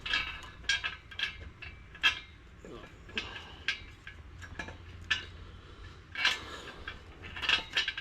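Irregular sharp metallic clinks with a brief ring, about ten in all, as tools and bolts knock against a stainless steel exhaust while it is lined up and fastened.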